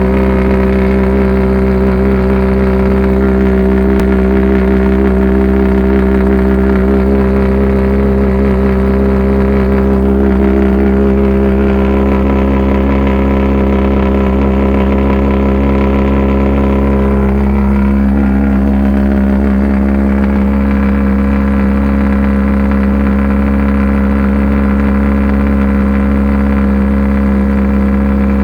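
2006 Kawasaki Ninja ZX-14's inline-four engine idling steadily and loud through dual unbaffled Tailgunner exhausts, with only slight shifts in tone along the way.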